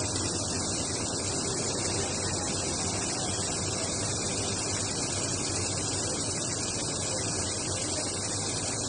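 Computerized jacquard needle ribbon loom running: a steady, even hiss-like noise with no distinct beat and a low hum underneath.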